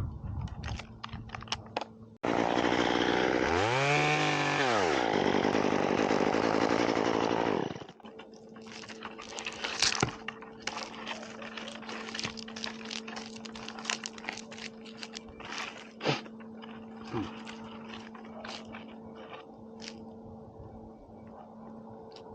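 Chainsaw idling, then run at full throttle for about six seconds from about two seconds in, its pitch rising and falling once, before it drops back to idle among scattered knocks and clicks.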